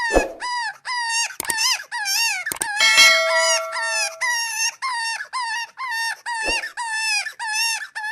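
A rapid run of short, high-pitched squeaky animal calls, about two to three a second, each with a quick dip in pitch. A brief held chime-like chord sounds over them about three seconds in, and a few sharp clicks and a soft thump come in between.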